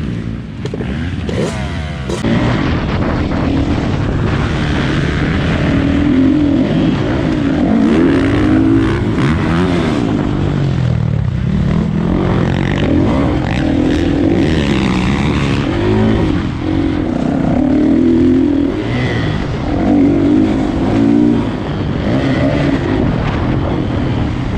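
Kawasaki KX450 four-stroke single-cylinder dirt bike engine being ridden on a motocross track, revving up and dropping off again and again through the laps. It grows louder about two seconds in.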